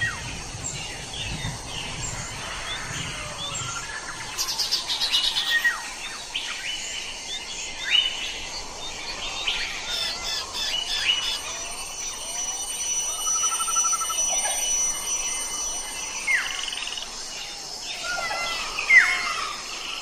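Many small birds chirping and calling together: a busy run of short, quick chirps and whistles, with a brief trill in the middle.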